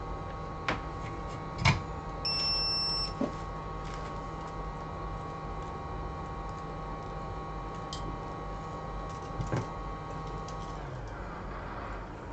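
A small electrical motor or fan hums steadily, with a short electronic beep about two seconds in and a few sharp clicks; near the end the hum winds down with a falling pitch as the machine is switched off.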